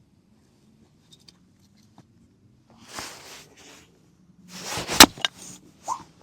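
Handling and rustling noises: a short rustle about three seconds in, then a louder rustle with a sharp click about five seconds in.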